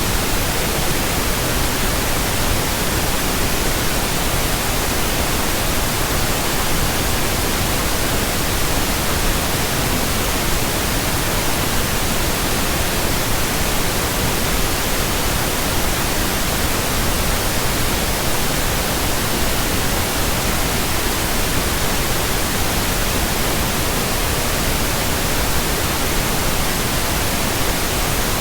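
Pink noise: a steady, unchanging hiss spread evenly from deep to high pitches, with no tones or events in it.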